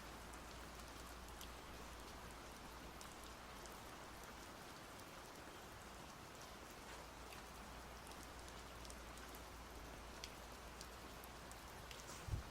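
Steady rain, a quiet even hiss dotted with the ticks of single drops, over a low hum. A short thump near the end.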